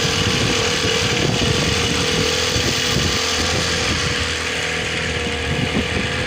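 Motorboat's outboard engine running steadily, with a constant whine, over a steady rush of wind and water noise.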